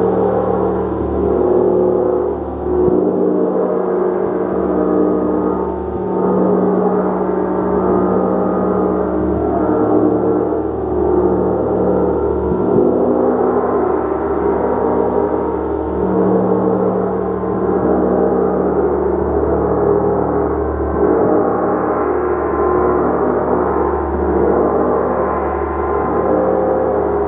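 Gong played continuously with a soft mallet: a dense, sustained wash of many ringing tones that swells and wavers every second or so, with no sharp strikes standing out.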